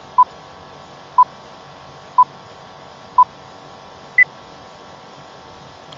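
Film-leader-style countdown timer beeping once a second: four short, equal beeps, then a single higher beep about four seconds in marking the end of the count, over a faint steady hiss.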